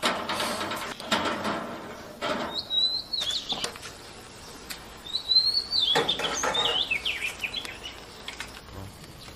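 A small bird chirping in quick rising calls, once about two and a half seconds in and again in a longer run from about five seconds. In the first two seconds there is light clatter as conch shells are set on the metal wire grill.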